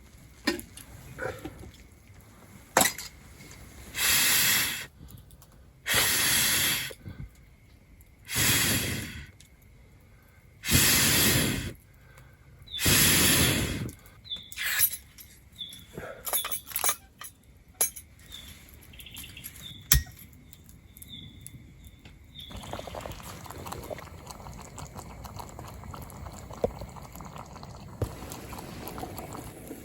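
Camp cooking sounds: five short bursts of rushing noise about two seconds apart, followed by scattered clicks and clinks of cookware and then a steady low hiss.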